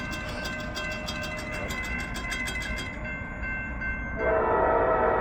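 Grade-crossing bell ringing in quick, even strokes until about three seconds in. About four seconds in, the locomotive's K5LA air horn begins a loud, sustained blast for the crossing.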